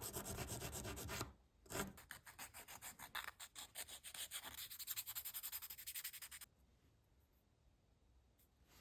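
Sandpaper on a stick rubbing back and forth over a thin wooden wing made from ice cream sticks, sanding its profile in quick, even strokes. There is a short break about a second in. The sanding stops about two-thirds of the way through.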